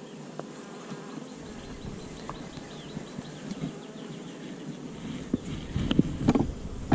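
Honeybees buzzing around an open hive, a steady hum with individual bees flying past. Near the end come low rumbles and a few sharp knocks.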